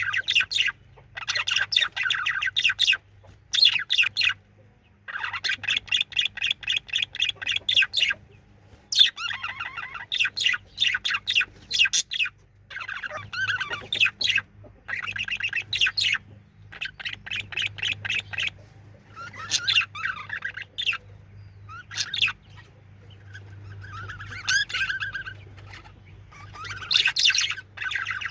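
Male budgerigar singing: a run of fast warbling and chattering phrases with chirps, broken by short pauses of a second or so. A faint steady hum sits underneath.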